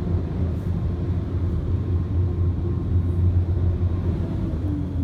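Steady low rumble of a car's engine running, heard from inside the cabin with the air conditioning on.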